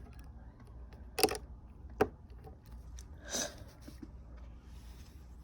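Plastic Lego bricks being handled and pressed together: two sharp clicks, one just after a second in and one about two seconds in, then a softer rustle of pieces.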